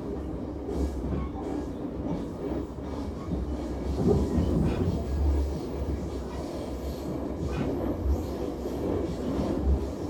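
Moving passenger train heard from inside the carriage: a steady low rumble with a few faint knocks.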